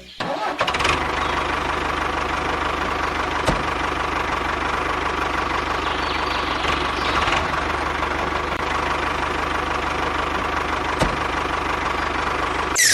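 A small engine running steadily at an even speed, with a fast, regular firing pulse, starting and stopping abruptly at cuts. Two sharp clicks sound over it, a few seconds in and again near the end.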